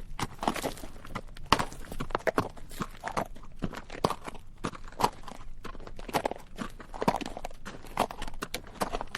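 Horse walking on rocky dirt, its hooves clip-clopping in an uneven rhythm of several knocks a second, with the bridle rattling.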